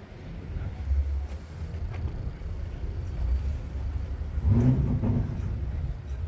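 Car engine running with a low rumble, swelling louder for a moment about four and a half seconds in.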